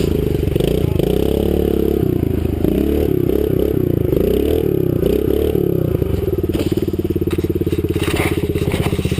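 Kawasaki KLX110 pit bike's small single-cylinder four-stroke engine running, its revs wandering up and down, then settling into a steady, evenly pulsing idle about six and a half seconds in.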